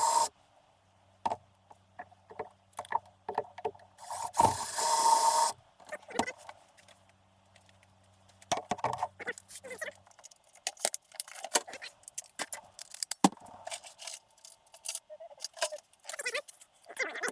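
Small metal tools and engine parts clicking and clattering as they are handled, with a louder rustling burst about four seconds in and a faint steady hum through the first half.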